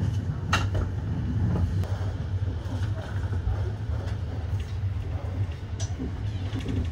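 Running noise inside a moving Intercity Notte sleeper coach: a steady low rumble from the wheels on the track, with a few sharp clicks and knocks as they pass over track joints.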